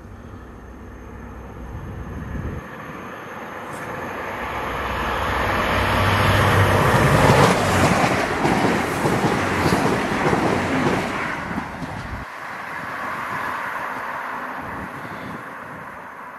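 A train passing close by at speed, its rumble and wheel noise swelling over several seconds to a peak in the middle, then fading away.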